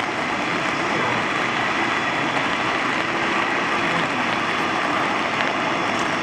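Steady hiss of escaping steam from the C57 steam locomotive, with no clear exhaust beat.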